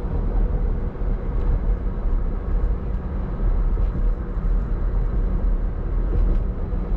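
Steady road and engine noise heard inside a moving vehicle: a constant low rumble with a faint steady hum.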